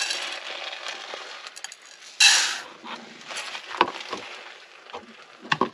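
Dry rice poured into a pot in a short sandy rush about two seconds in, with clinks and knocks of dishes and cookware around it.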